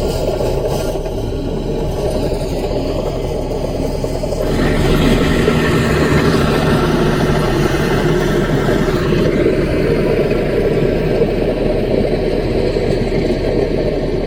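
Mini bulldozer's diesel engine running steadily, then working harder and louder from about four and a half seconds in, easing a little after about nine and a half seconds.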